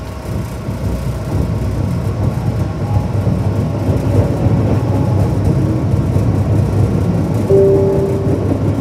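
Low rumble of a train in motion heard from inside a car, growing louder over the first few seconds as it picks up speed, with a brief steady tone about seven and a half seconds in.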